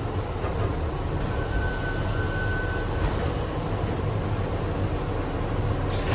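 Kawasaki R62 subway train running along the track, heard from aboard: a steady rumble of wheels and running gear. About a second in, a thin high whine sounds for roughly two seconds.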